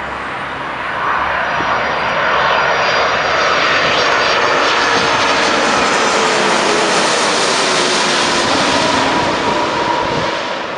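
Airbus A330-200 twin-jet passing on its landing approach: engine noise swells about a second in, holds loud with whining tones that slide down in pitch as it goes by, then drops off near the end.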